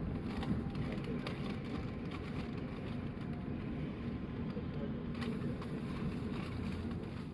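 Steady rumble of a 185 series electric train running, heard from on board, with scattered light clicks and knocks.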